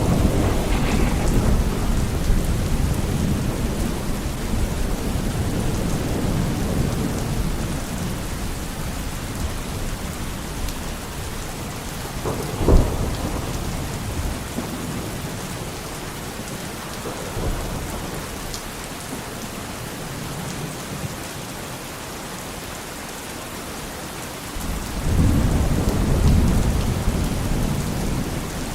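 Steady rain with rolling thunder: a low rumble fades over the first several seconds, a single sharp thunderclap comes about halfway through, and another rumble builds near the end.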